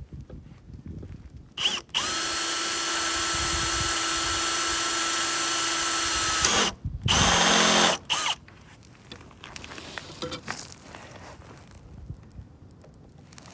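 Power drill turning a center drill to start a hole: a brief blip of the trigger, then a steady whine for about four and a half seconds, a short pause, and a second shorter, higher-pitched run, followed by quiet handling.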